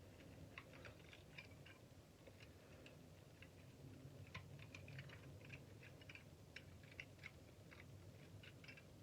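Faint, irregular small clicks and ticks of metal being worked as the curled-over pieces on a shop vac motor's stator are bent straight so they can be pulled out.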